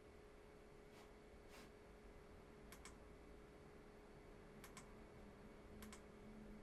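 Near silence: room tone with a few faint, sharp clicks, some coming in quick pairs.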